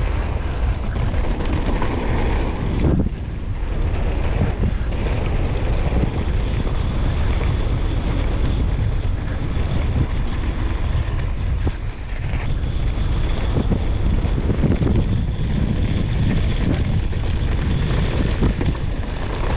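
Wind buffeting the camera microphone, mixed with the rumble and rattle of a mountain bike riding down a rough trail.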